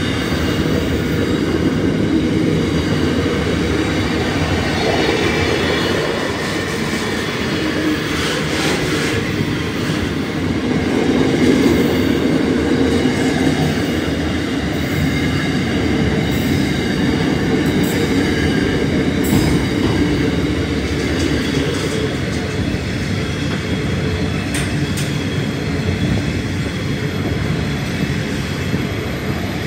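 Long intermodal container freight train passing close by at steady speed: a continuous rumble of the wagons rolling over the rails.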